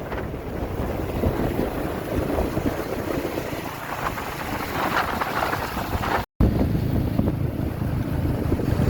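Wind buffeting the microphone over the running engine and road noise of a motorbike ridden through city traffic. The sound cuts out for a moment about six seconds in.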